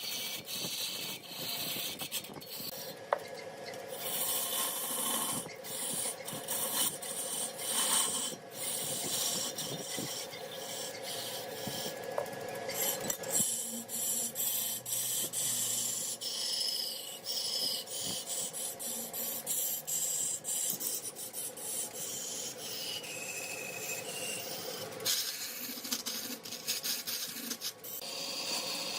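Wood being turned on a lathe: a turning tool scrapes and cuts against the spinning wood in uneven strokes, over a steady machine hum.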